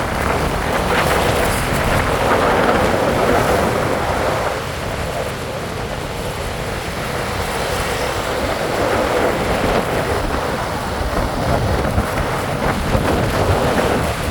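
Wind rushing over the microphone on a moving bike, over steady road and vehicle noise.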